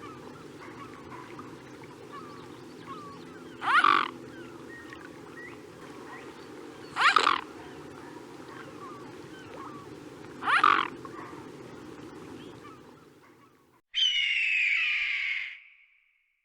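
Animal calls: three short, loud calls about three and a half seconds apart over a steady background hum that fades out. After a brief silence, a different, longer call of about two seconds follows.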